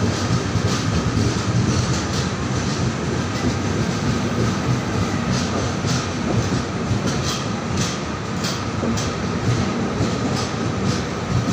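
Indian Railways passenger train coaches rolling past close by: a steady rumble of wheels on rail with irregular clacks as the wheels cross rail joints.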